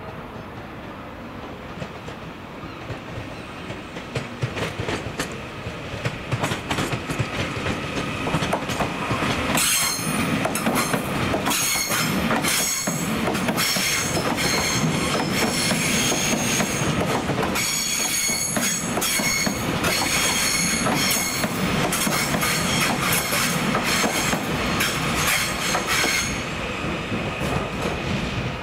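A train moving through the station, its wheels knocking over rail joints with high-pitched wheel squeal. The sound builds over the first several seconds and dies away near the end.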